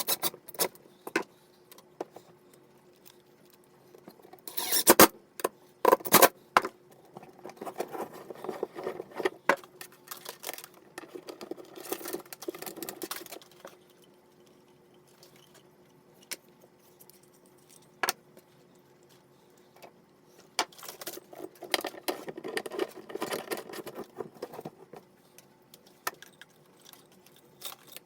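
Irregular clicks, clinks and rattles of small hard objects being handled, with a cluster of louder knocks about five to six seconds in and stretches of scraping and rustling. A faint steady hum runs underneath.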